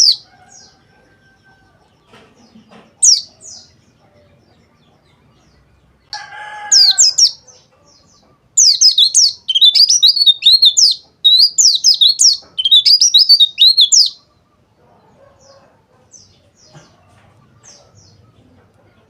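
White-eye (pleci, Zosterops) singing: a few short, sharp high chirps in the first seconds, then fast, rapidly warbling song phrases from about six to fourteen seconds in, followed by faint scattered chirps.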